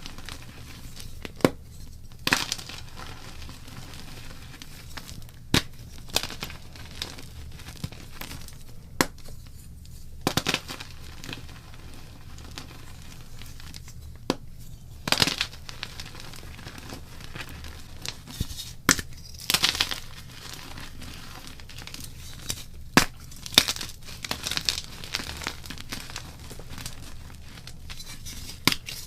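Blocks of gym chalk being crushed and broken by hand, giving soft crumbly crunches and sharp snaps at irregular moments, with louder crushing clusters scattered throughout.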